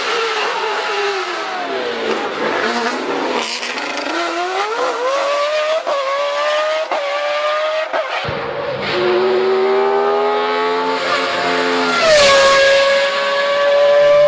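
Judd racing engine in a race car at full throttle: the engine note falls briefly, then climbs through the revs again and again, with a quick dip in pitch at each upshift. It holds a high, steady note near the end.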